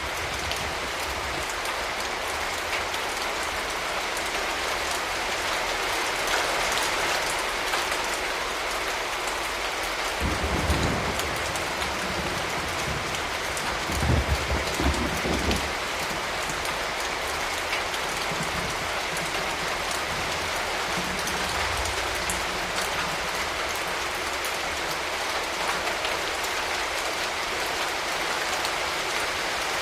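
Steady rain falling, an even hiss of drops. Two brief low rumbles come about ten and fourteen seconds in.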